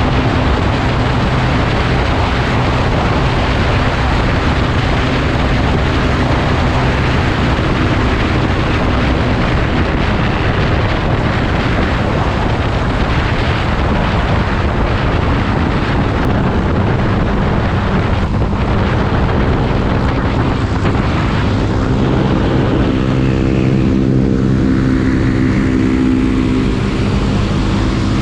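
Motorcycle engine running with wind noise on the microphone; about two-thirds of the way in the engine note steadies into clearer, stronger tones.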